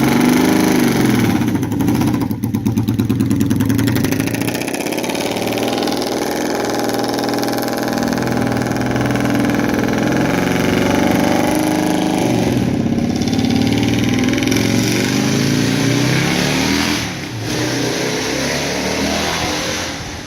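An engine running on its first run, revving up and dropping back repeatedly so its pitch rises and falls, with a brief drop in level about seventeen seconds in.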